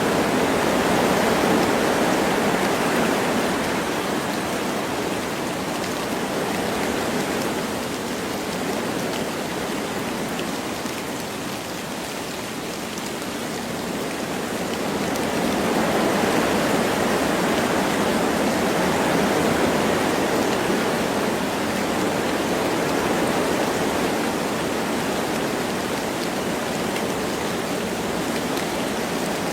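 Wind blowing through forest trees with light rain, a steady rushing hiss. It surges in a gust near the start, eases off about twelve seconds in, then builds into another gust.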